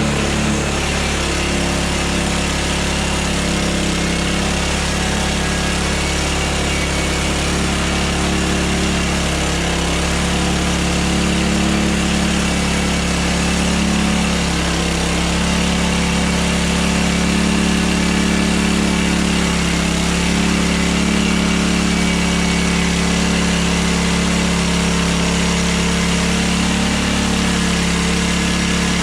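Engine of a Hudson Hunter sawmill running steadily at a constant speed.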